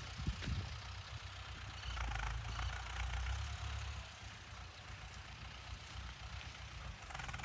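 Ford 6600 tractor's diesel engine running steadily under load, a low engine note that swells for a couple of seconds in the middle.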